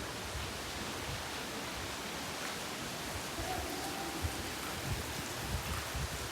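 Steady hissing outdoor ambience with faint distant voices and a few low thumps near the end.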